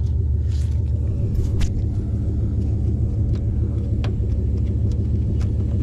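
Steady low rumble with a few sharp, light clicks from a part being handled and worked loose.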